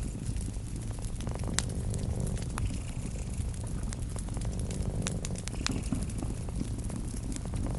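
A cat purring steadily in a low rumble, over a crackling wood fire that gives off scattered sharp pops.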